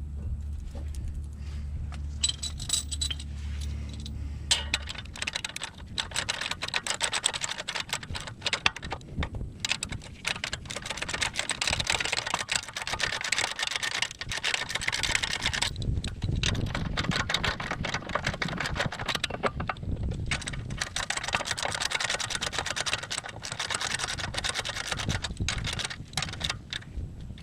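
Rapid metallic clicking and rattling of hand tools, typical of a ratchet wrench turning caliper bracket bolts, coming in runs broken by short pauses. A steady low hum fades out about five seconds in, and a low rumble sits under the clicking in the middle.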